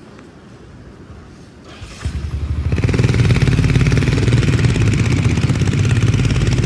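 Royal Enfield Himalayan motorcycle's single-cylinder engine comes in abruptly about two seconds in and then runs loud and steady with a rapid pulsing beat.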